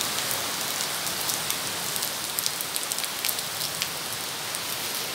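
Steady rain falling, an even hiss with scattered sharp taps of single drops landing close by.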